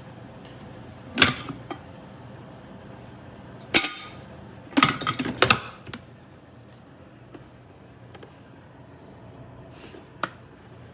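A few sharp knocks and clatters, as of hard objects being handled and set down, over a steady low hum. There is one knock about a second in, another near four seconds, a quick cluster around five seconds, and a small tap near the end.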